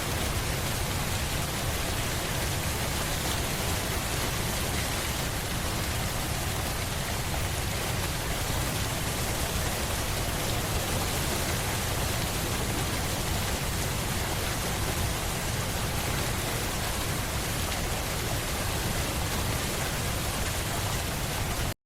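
Steady heavy rain: an even, dense hiss with a low rumble beneath it, which cuts off abruptly at the very end.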